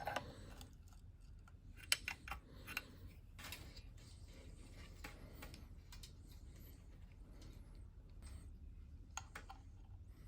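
Faint, scattered metal clinks and taps of a fixture and clamping hardware being handled on a milling machine's steel table, a few close together in the first few seconds and another pair near the end, over a low steady hum.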